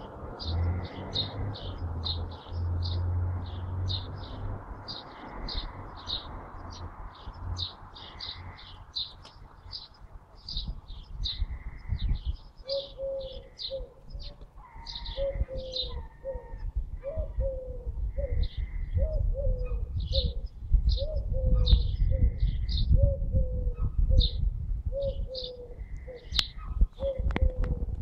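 Birds calling: a quick run of short, high chirps throughout, joined about halfway by a lower call repeated over and over, each note falling in pitch. A low rumble runs underneath.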